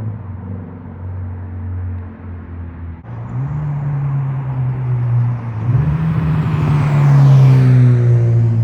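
Subaru BRZ's flat-four engine through an unbranded aftermarket exhaust, running steadily and then rising in pitch twice as it grows louder. It is loudest about seven seconds in and falls in pitch near the end, like a car driving past.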